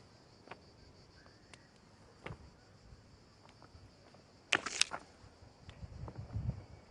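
A steady high insect buzz of cicadas or crickets, with footsteps crunching on a dry, stony trail. There are a few scattered snaps, and a loud cluster of crunches about four and a half seconds in, followed by a second of scuffing.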